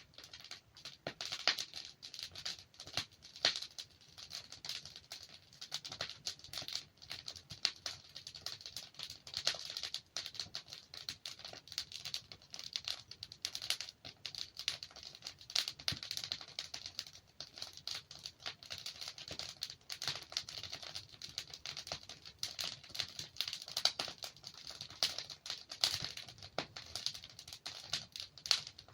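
Wood fire crackling and popping, a dense run of irregular small snaps with occasional sharper pops.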